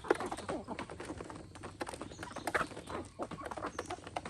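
Chickens clucking, with many quick clicks and taps around them.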